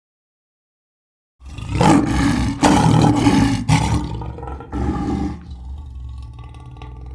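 A large animal roaring loudly: one long roar broken in places, then a shorter one, starting abruptly after a second and a half of silence. A quieter steady low sound follows.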